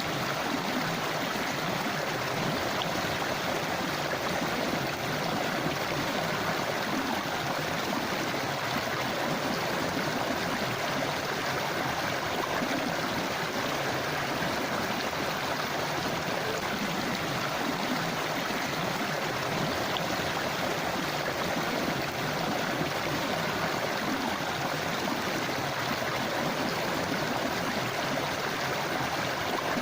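A forest river flowing steadily: continuous, even rushing and babbling water with no breaks.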